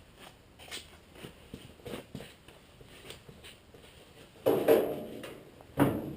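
Light scattered clicks and taps of tools and parts being handled, then two loud clunks, one about four and a half seconds in and one near the end.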